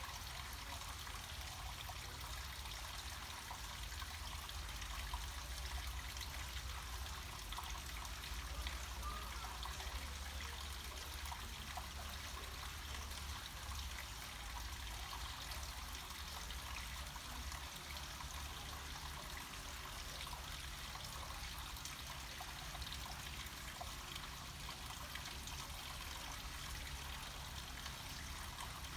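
Small mountain stream of water flowing and trickling steadily downhill, an even rushing noise with no breaks.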